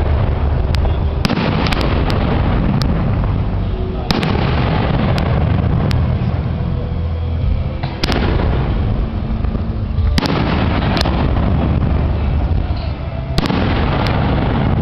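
Aerial firework shells bursting: about five heavy booms a few seconds apart, each trailing off in a long rumble, with sharp single cracks in between.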